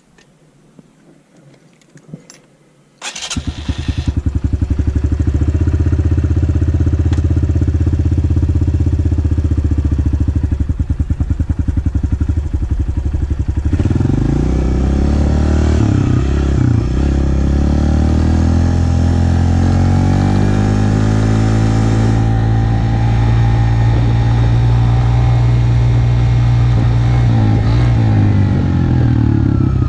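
Honda 125 motorcycle engine starting about three seconds in, after a few faint clicks, then idling with a steady pulse. From about halfway it is revved up and down, then runs steadily with a brief dip near the end.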